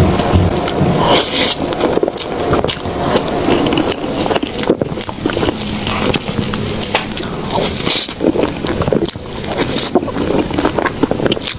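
Close-miked eating sounds of soft desserts being chewed: a continuous run of irregular wet smacks and clicks.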